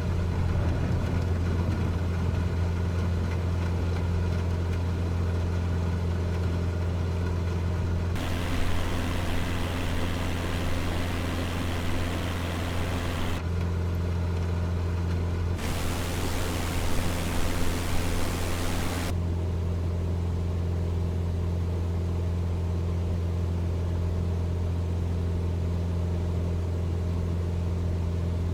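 Cessna 172's piston engine and propeller droning steadily in cruise, heard inside the cockpit. Twice a loud hiss switches on abruptly for a few seconds and cuts off.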